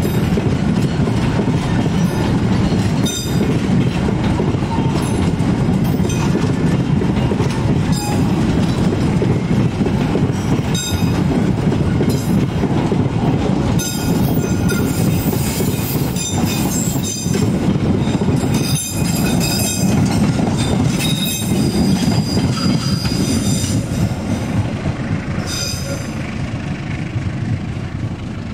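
Train running past on jointed track: a steady rumble of wheels on rail, with clacks as wheel sets cross the rail joints and high thin wheel squeal in the middle and again near the end. It eases off at the very end.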